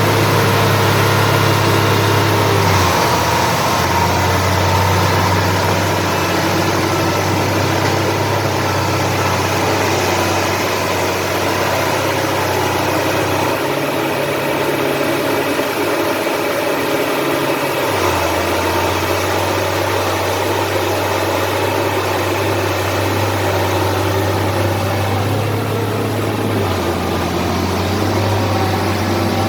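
Heavy earthmoving machine's diesel engine running steadily, its low engine note shifting a few times and dropping away for a few seconds midway.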